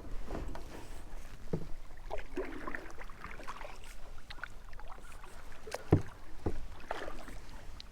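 A kayak being manoeuvred with a paddle: water splashing and sloshing with scattered knocks against the hull, the sharpest knock about six seconds in.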